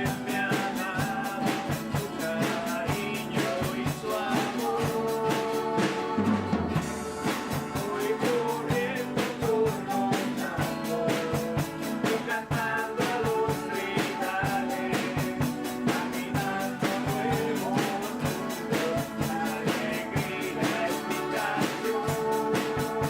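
Live band playing a lively church chorus song, with held melody notes over a steady drum-kit beat.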